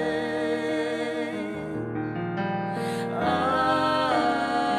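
Worship music: voices singing a long, held 'Amen' with vibrato over sustained keyboard chords. The sound softens about two seconds in and the voices swell back in about a second later.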